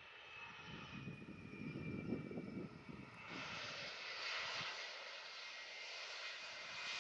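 Boeing 757-200 airliner's jet engines on arrival: a faint whine falling in pitch, a low rumble about one to three seconds in, then a steady rushing jet hiss from about three seconds on.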